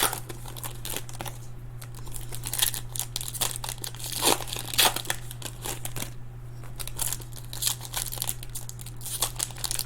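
Trading-card pack wrappers crinkling and tearing as packs are opened and the cards handled: an irregular run of short crackles and snaps over a steady low hum.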